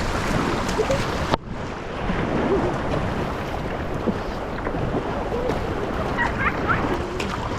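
River water rushing and splashing around a boat on the water, with wind buffeting the microphone; the sound drops abruptly a little over a second in, then carries on.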